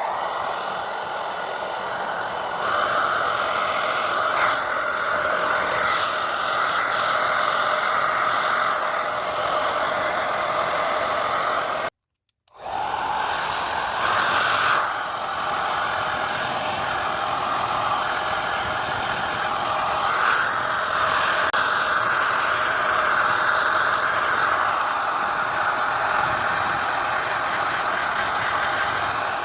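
Hand-held hair dryer running on a strong setting, a steady blowing motor whine. It breaks off abruptly once, about twelve seconds in, and resumes.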